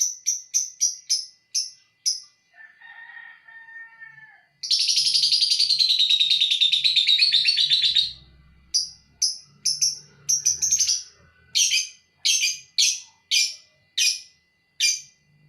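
Lovebirds calling. Short sharp chirps come about three a second, and a few seconds in a long, rapid, continuous chattering trill lasts about three and a half seconds: the 'ngekek' trill prized by lovebird keepers. The chirps then start again more slowly, and a fainter, lower call comes just before the trill.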